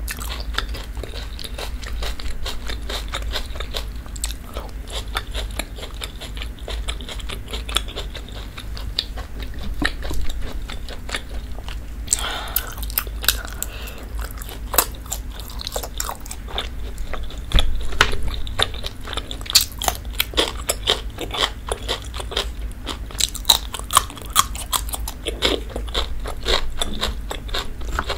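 Close-miked eating sounds: chewing and biting with many small, irregular wet mouth clicks.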